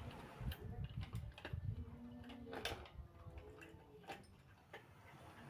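A series of irregular light clicks and taps.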